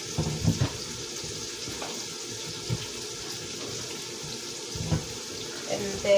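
Onions frying in a pan, giving a steady sizzling hiss, with a few soft knocks of tomato pieces being placed into a blender jar.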